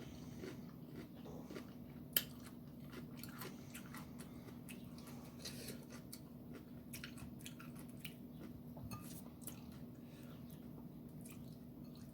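Close-up eating sounds: a person chewing and biting food, with scattered small wet clicks and crunches, one louder click about two seconds in.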